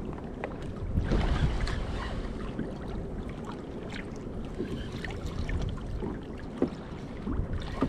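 Wind buffeting the microphone while sea water laps and splashes against a kayak's hull, with scattered small clicks and knocks.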